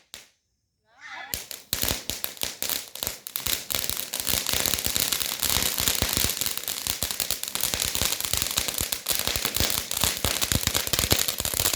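Fireworks crackling: a fast, dense run of sharp pops. It starts about a second and a half in, after a brief near-silence, and keeps going.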